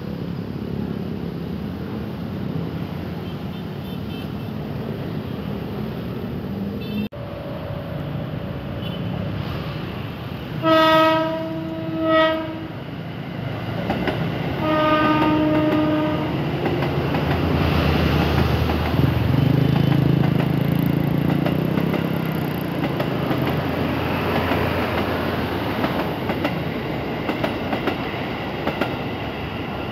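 Electric commuter train sounding two horn blasts, each about a second and a half long, then running past with a louder rumble and wheels clattering over the rail joints.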